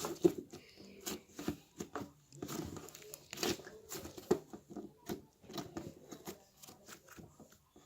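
Slime being worked by hand, giving a quick, irregular run of sticky pops, clicks and crackles.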